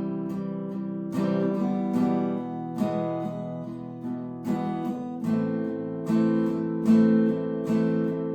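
Acoustic guitar strummed, ringing chords with a strum roughly every second and chord changes partway through; no singing.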